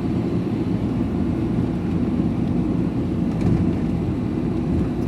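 Steady low rumble of a van's engine and tyres on the road, heard from inside the cab while driving.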